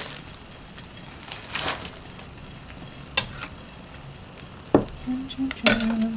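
Butter sizzling steadily under French toast frying in a pan, with a few sharp clicks and knocks of a metal spatula against a bowl as bread is dipped in egg; the loudest clatter comes near the end.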